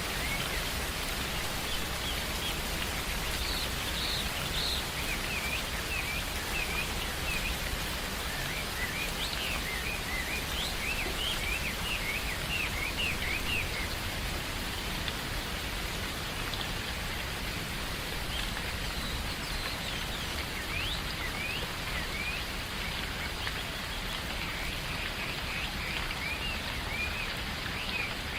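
Steady rain falling in a forest, with birds chirping in many short, quick calls throughout, busiest around the middle and near the end.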